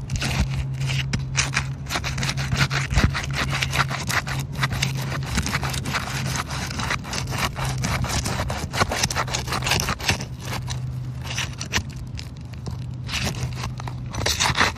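Asphalt shingles being pried apart with a snake tool: repeated scraping and crackling as the sealed tar strip breaks loose and the shingle mat rips. A steady low hum runs underneath.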